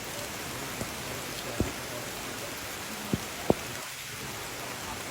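Steady rain falling, an even hiss, with three short sharp knocks in the middle of it.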